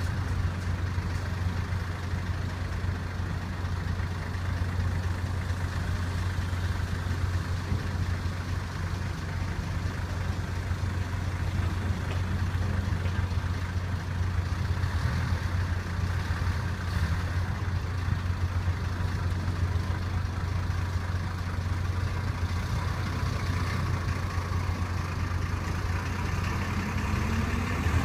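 Steady low drone of a ferry's engine, with a tone rising in pitch near the end.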